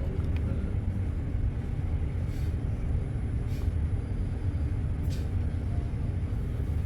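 London bus running, heard from inside: a steady low engine and road rumble, with a few short hisses.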